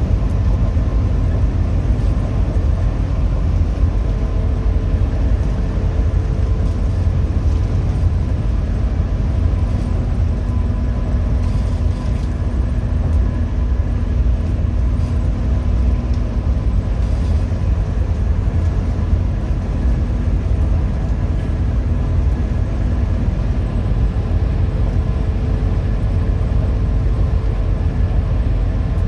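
Hino RM 280-engined coach on the move: a steady low rumble of engine and road noise, with faint steady whining tones above it.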